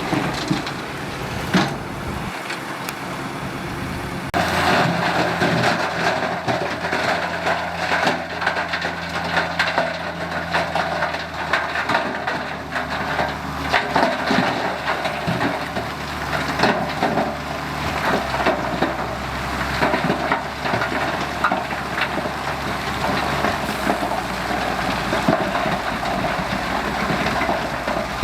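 Heavy diesel earthmoving machinery running steadily, with irregular crunching and clattering of dirt and stones being dumped or pushed. The engine sound changes abruptly about four seconds in.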